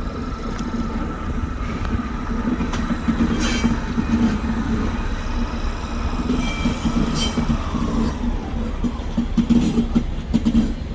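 Class 73 electro-diesel locomotive passing under diesel power, with a steady running tone that falls in pitch about eight seconds in and wheel clicks over the rail joints.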